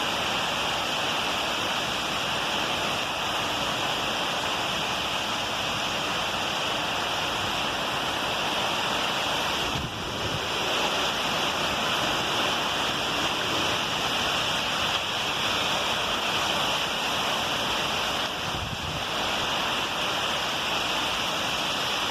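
Heavy rain pouring down in a steady, dense hiss, dipping briefly about ten seconds in.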